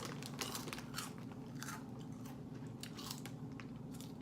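Someone biting and chewing a crunchy snack close to the microphone: a run of irregular, sharp crunches.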